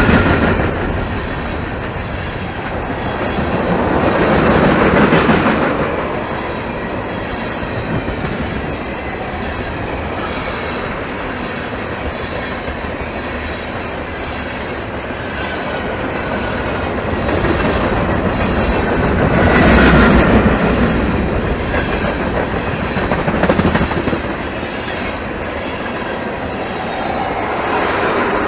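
Norfolk Southern freight train's cars rolling past close by, wheels clicking over the rail joints with a steady rumble and faint squealing of wheels against rail. The noise swells twice, about four seconds in and again about twenty seconds in.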